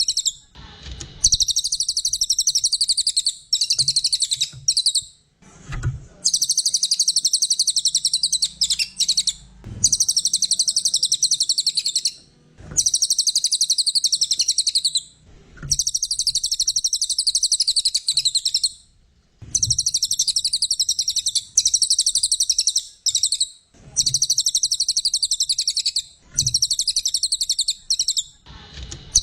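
Brown cililin (cililin coklat) songbird singing a long, rapid, high-pitched chattering trill, repeated in phrases of two to four seconds separated by short pauses.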